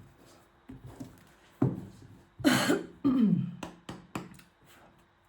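A person coughs about two and a half seconds in, followed by a falling, throat-clearing sound, then a few light clicks.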